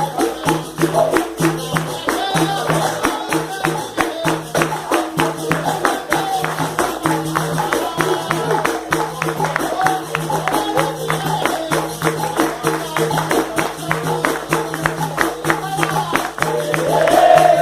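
Capoeira roda music: quick, steady tambourine-like percussion over a held low tone, with singing that grows louder near the end.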